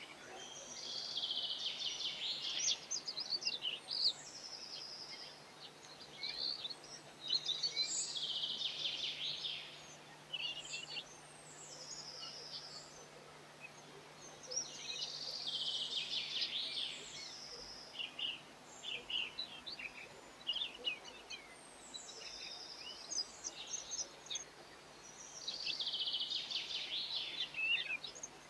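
Bird song: a busy phrase of high notes about every six to seven seconds, with scattered chirps between the phrases, over a faint steady low hum.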